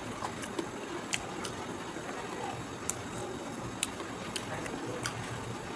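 Chewing and mouth noises picked up close by a lapel microphone: irregular sharp smacks and clicks over a steady background hiss.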